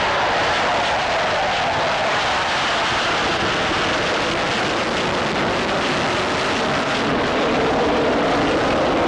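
RAF Nimrod maritime patrol aircraft passing low with its four Rolls-Royce Spey turbofans running: a loud, steady jet noise whose tone slowly lowers.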